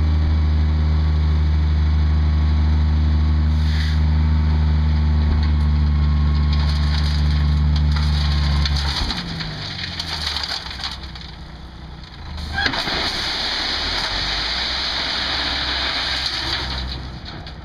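A tri-axle dump truck's diesel engine runs steadily, then drops away about nine seconds in. A rush of ABC gravel sliding off the bed builds alongside it and gets loud with a sudden surge about twelve seconds in, easing off near the end.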